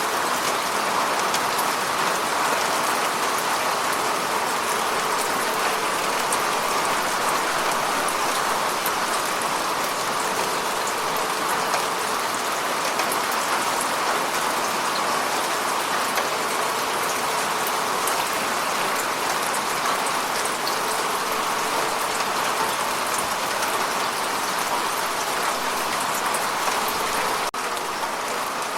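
Heavy rain falling steadily as an even hiss, with a brief break and a slight drop in level near the end.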